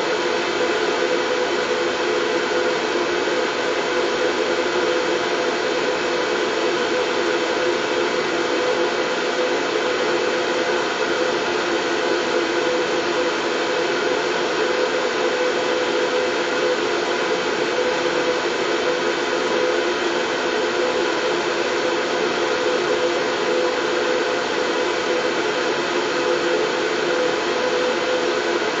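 Steady white noise: an even rushing hiss with a faint hum in it, unchanging in level.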